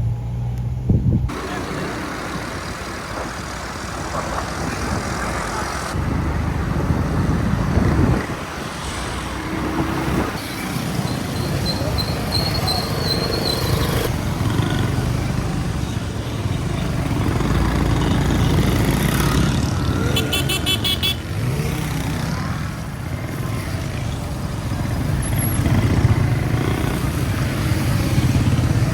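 Busy city street traffic: engines of cars and motorcycles running, with horns tooting now and then. The mix changes abruptly a few times.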